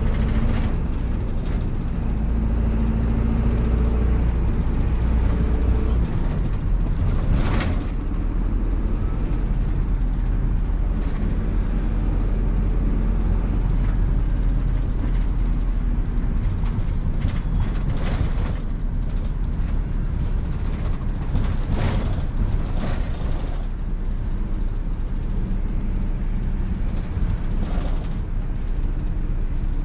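City bus running along the road, heard from inside the cabin: a steady low engine and drivetrain rumble, its pitch lines changing about six seconds in, with a few short knocks and rattles along the way.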